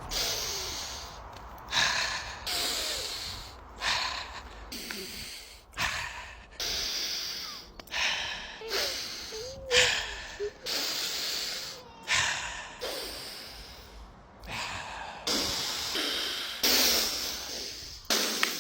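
A person breathing heavily and panting into the microphone, loud breaths in and out about once a second, with a few wheezy voiced sounds among them.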